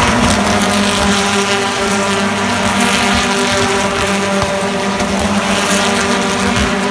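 British Touring Car Championship race cars' engines running at racing speed, a loud, steady engine note.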